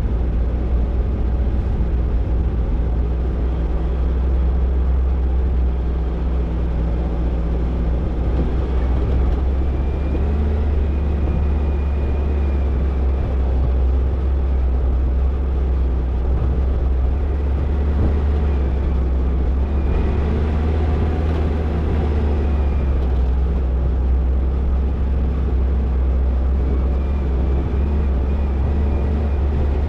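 Toyota Tercel 4WD wagon driving steadily on a dirt trail: a constant low engine drone with road and drivetrain noise, unchanging in level.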